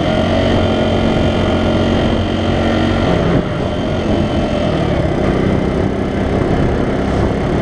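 Dual-sport motorcycle engine running steadily while riding, with wind noise on the microphone. The engine note dips and changes briefly about three seconds in.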